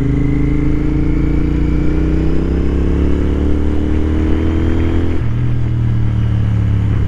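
Royal Enfield Continental GT 650's parallel-twin engine pulling under acceleration, its pitch climbing steadily for about five seconds, then dropping suddenly at an upshift and holding steady.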